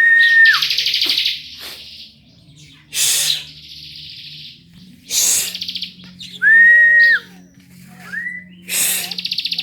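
Lovebird chattering in several short, rapid, buzzy trills, with two clear, flat whistled notes, one at the start and one about six and a half seconds in, and a short rising note just after.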